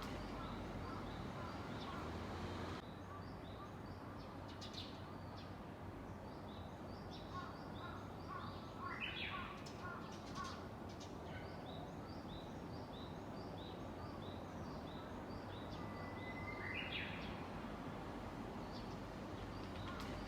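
Japanese bush warbler singing its hoo-hokekyo song: a long steady whistle followed by a quick flourish, near the end, with another burst of song about nine seconds in. Faint short chirps of other small birds repeat throughout over steady background noise.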